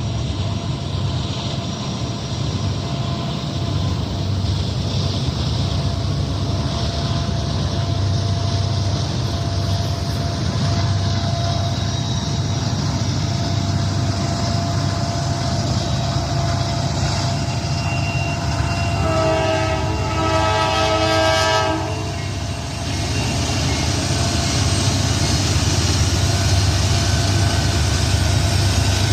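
Freight train passing with its diesel locomotives rumbling steadily. About two-thirds of the way through, the lead Norfolk Southern Dash 8 locomotive's multi-chime air horn sounds a chord in a quick run of short toots for about three seconds.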